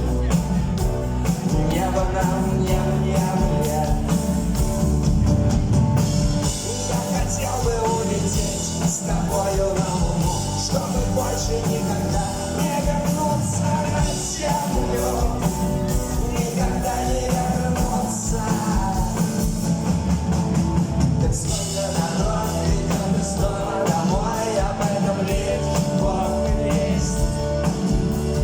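A rock band playing live, with singing over the instruments and a steady beat.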